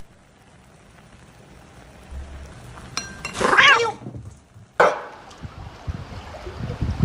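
A cat meowing once, a bending call about three and a half seconds in, followed by a sharp click.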